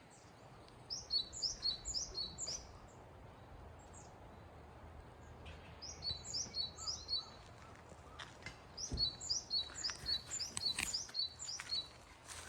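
A small songbird singing three bursts of quickly repeated, high two-note whistled phrases, with a few faint knocks in the second half.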